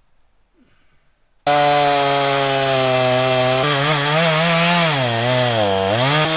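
Chainsaw running at high revs, starting abruptly about a second and a half in after near silence, its pitch steady, then sagging and wavering.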